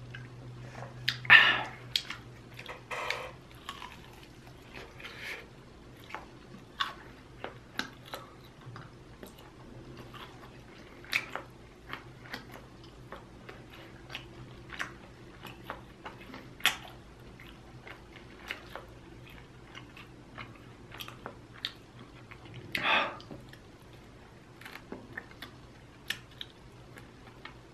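Close-miked chewing and biting of chicken wings: wet mouth clicks and smacks scattered irregularly throughout, with two louder, longer mouth noises, one about a second in and one about 23 seconds in.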